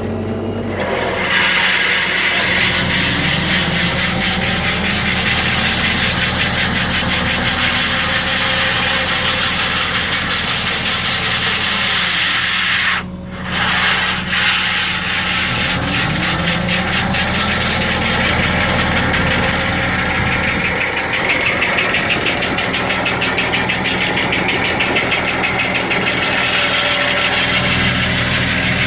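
Hydraulic rock saw on a 5-tonne excavator cutting into rock: a steady, harsh cutting noise over the excavator's engine running under load, with a brief dip about halfway through.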